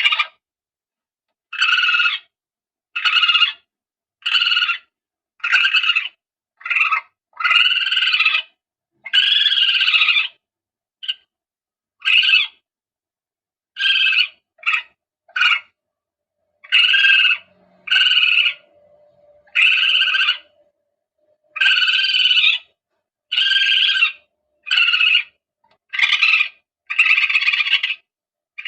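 Palm civet calls played as a hunting lure, repeated over and over: about twenty short calls, roughly one every second to second and a half, some a little longer than others. A faint steady low hum sits under the calls for a few seconds in the middle.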